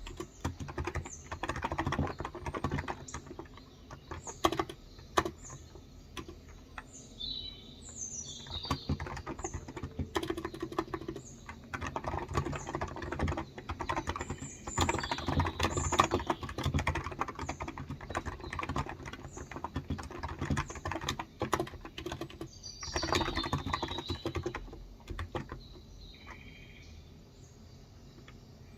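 Typing in bursts on a Cox Endeavor electrostatic-capacitive tenkeyless keyboard with 35 g switches: dense runs of key presses that ease off after about 25 seconds. Birds chirp now and then with short high notes.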